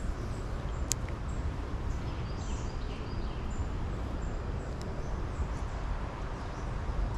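Steady low wind rumble on the microphone by a creek, with faint bird chirps and two sharp clicks, one about a second in and one near five seconds.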